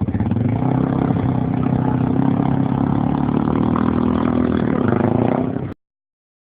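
Small off-road vehicle engine running under throttle, its pitch climbing in the first half second and then holding steady, until the sound cuts off abruptly near the end.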